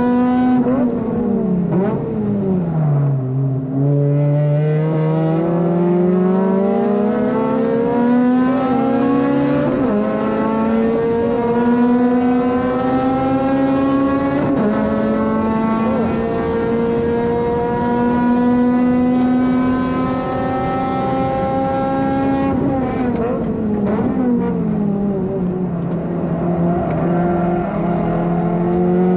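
Honda Civic FD2's four-cylinder engine on track, heard from inside the car. The revs drop hard at the start as the car brakes and downshifts, then climb through the gears and hold high for a long stretch. They drop sharply again a little over three-quarters of the way through before picking up once more.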